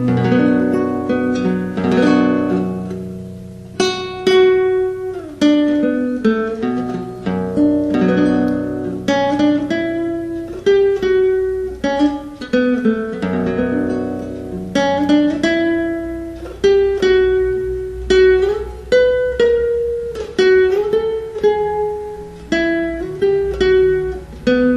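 A solo guitar plays an instrumental passage: a slow melody picked note by note over held bass notes, with no singing.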